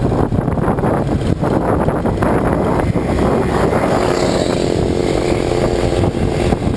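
Wind rushing on the microphone of a Yamaha motorcycle riding along a road, with its engine running underneath. From about three seconds in, a steady engine hum stands out more clearly.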